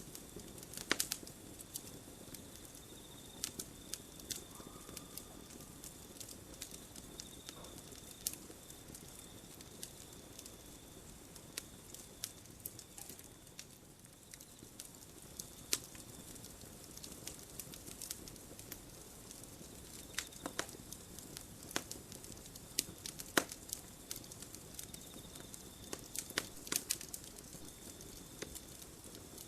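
Campfire crackling: irregular sharp pops and snaps of burning wood over a low steady rush of flame. A thin, high, steady tone fades in and out behind it.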